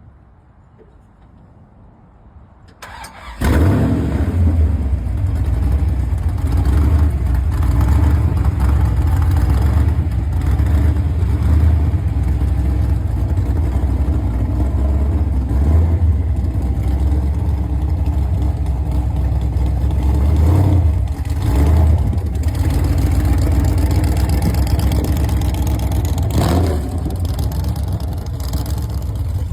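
A gasser drag car's engine is started about three seconds in and then runs loud and steady at idle, with two short changes in its note later on.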